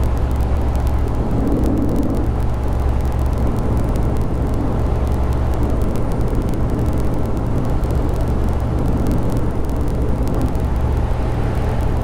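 Honda Grom's single-cylinder 125 cc four-stroke engine running at a steady speed while the motorcycle is ridden, with no revving up or down.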